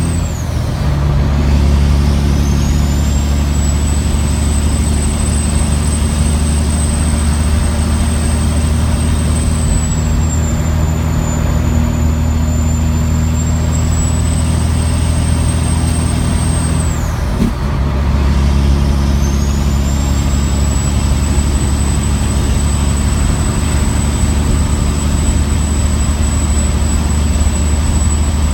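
Caterpillar C15 single-turbo diesel in a 2004 Kenworth W900L, pulling hard under a heavy load, with a high steady turbo whistle over the engine drone. Twice, at the very start and about 17 seconds in, the whistle drops away during a gear change and then spools back up in a rising glide.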